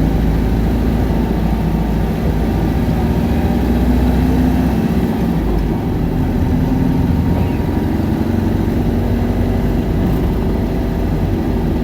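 Isuzu Erga city bus's four-cylinder diesel engine running at a fairly steady, moderate speed, heard from inside the bus, with a low rumble underneath.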